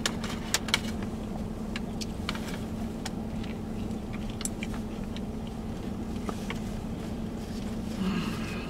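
Eating sounds: a bite into a sandwich and chewing, with scattered small clicks, over a steady low hum inside a car cabin.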